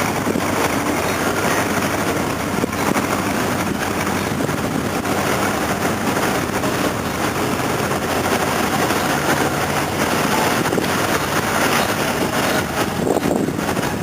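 Steady engine noise of a river cruise boat under way, with wind rushing over the microphone.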